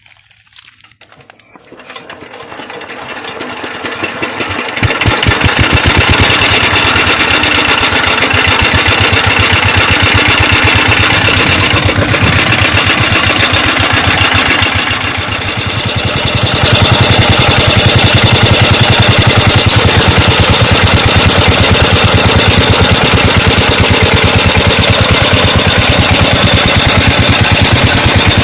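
16 hp Petter-type diesel tube-well engine starting: the sound builds up over the first few seconds as it is cranked up to speed, then it fires and runs with a steady, even beat. Its level dips briefly about halfway through, then it settles back into steady running.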